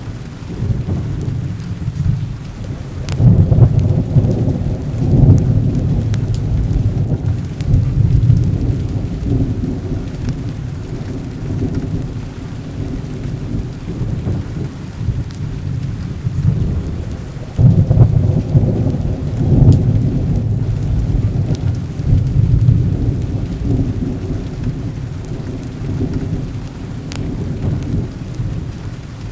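Steady rain under continuous rolling thunder, the low rumble swelling loudest about three seconds in and again about eighteen seconds in.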